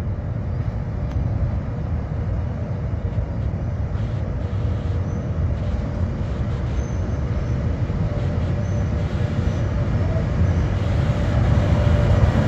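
FS E652 'Tigre' electric locomotive (E652 003) hauling a freight train slowly out of a tunnel into the station. A steady low rumble grows gradually louder as it approaches.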